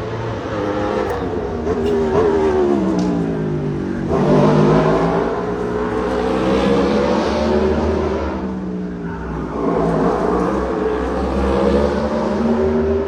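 Race cars passing at speed one after another, each engine's pitch sweeping down as it goes by.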